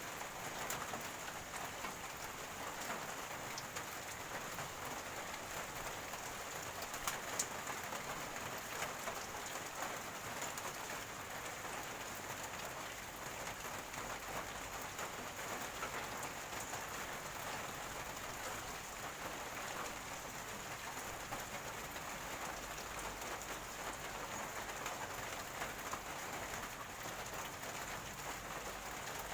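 Steady rain falling, a dense patter of drops with a few sharper single drops, the clearest a little after seven seconds in.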